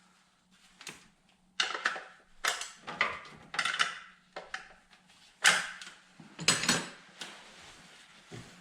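Irregular metallic clanks and knocks, about eight sharp hits spread over several seconds, from tools and parts while the upper intake manifold of a 3.6L Pentastar V6 is being worked loose.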